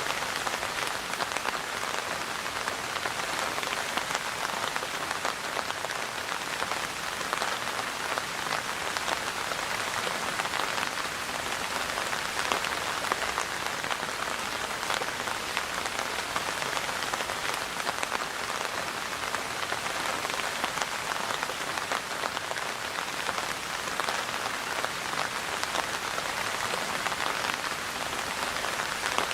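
Steady rain falling on a surface, a dense even patter of many small drop ticks with no let-up.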